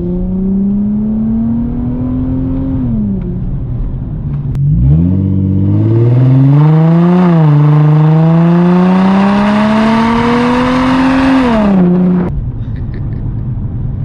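Muffler-deleted 2004 Infiniti G35 coupe's V6 under hard acceleration. The revs climb steeply, drop at a gearchange about seven seconds in, then climb again. Near the end the driver lifts off, the revs fall, and a few faint crackles follow.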